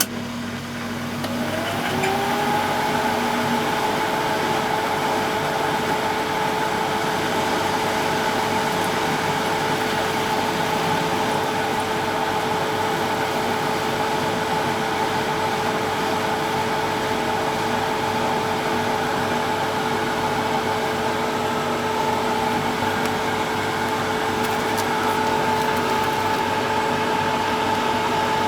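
1974 Zoppas Superautomatic 242 washing machine spinning up: a motor whine rises over about a second, then holds steady as the drum runs at spin speed, with a low hum dropping away a few seconds in.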